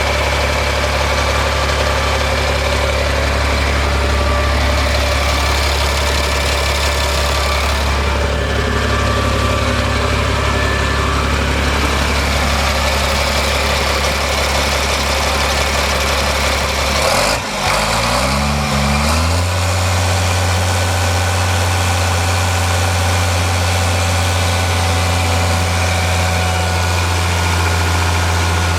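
Caterpillar CFE 7.2 L inline-six diesel engine running steadily at idle. A bit over halfway through there is a brief clunk, then the engine speed rises over about two seconds and holds steady at a higher speed.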